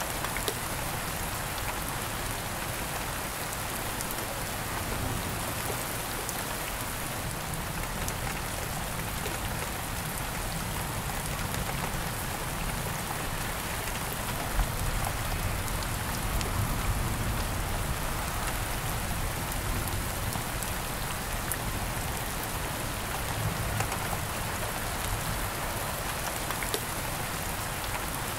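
Steady rain falling: an even hiss, with scattered ticks of single drops hitting a surface and a few slightly louder drop hits.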